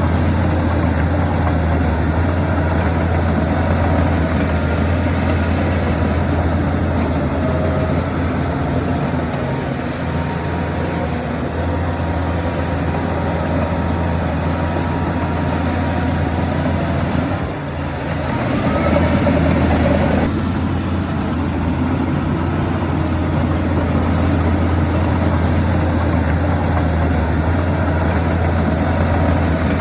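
Heavy diesel earthmoving machinery running steadily with a deep engine hum. About 17 seconds in the engine note dips briefly, then rises and runs louder for about three seconds before settling back.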